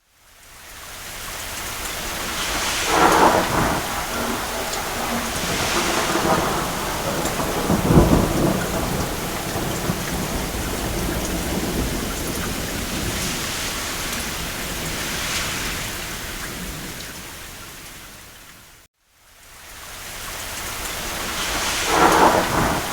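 Steady heavy rain with rolls of thunder swelling through it, the deepest clap about eight seconds in. Near the end the sound fades briefly to silence and swells back in.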